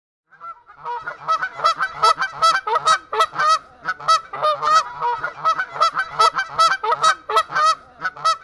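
A flock of waterfowl calling over and over, many loud calls overlapping.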